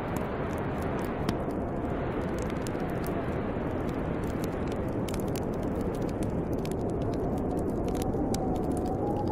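Snowstorm wind blowing steadily, with a faint wavering whistle that rises and falls, over many small crackles from a burning wood fire.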